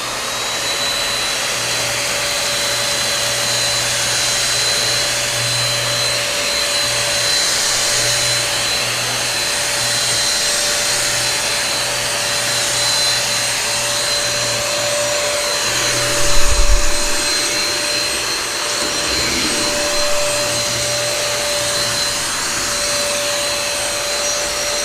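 Nikai NVC320H1 600 W stick vacuum cleaner, used handheld, switched on and running steadily with a high whine while it sucks crackers off a table. A loud thump comes about two-thirds of the way through, with a couple of softer knocks soon after.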